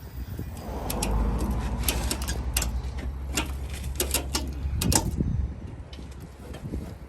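A vehicle towing a strapped-down car, running with a low engine rumble and a string of clanks and rattles. The rumble and knocks are strongest between about one and five seconds in.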